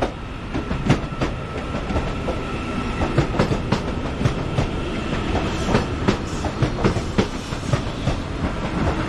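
Three-coach passenger train running into the platform, its wheels clicking over rail joints and pointwork many times, over a steady rumble with a faint high whine.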